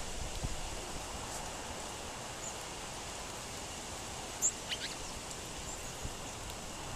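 Gusty wind rustling leaves, with a few short, high songbird chips, the loudest about four and a half seconds in.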